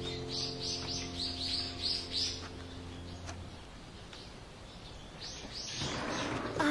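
Small bird chirping in a quick run of about seven short, high calls, then two more near the end, over a held music chord that fades out about halfway through.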